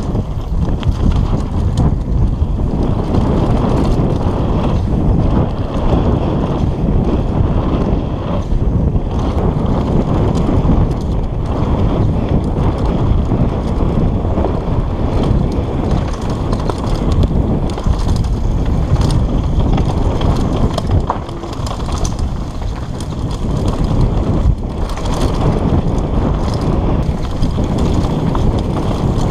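Mountain bike riding fast down a rocky downhill trail: wind buffets the microphone while tyres rumble over rock and the bike rattles and clatters with many small knocks. The noise eases briefly about two-thirds of the way through.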